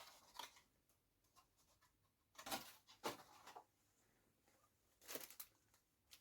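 Faint rustling of a t-shirt and its packaging being handled and unfolded, in four short bursts with near silence between.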